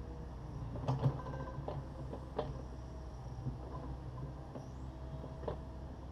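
Takeuchi TB260 excavator's diesel engine running steadily, with several knocks and clunks from the bucket working broken concrete floor.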